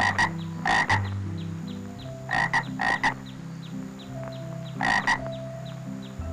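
Frog croaking: short croaks, several in quick pairs, about seven in all, spaced irregularly.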